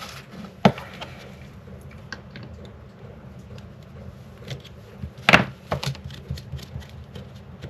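Scattered clicks and knocks of small tools and parts being handled while a microphone is taken apart, the loudest a sharp knock about five seconds in followed by a couple more. A steady low hum sits underneath.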